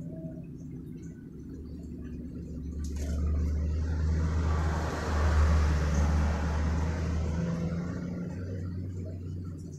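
A motor vehicle passing by: a low engine rumble with tyre hiss that swells over several seconds, is loudest around the middle, and fades away near the end.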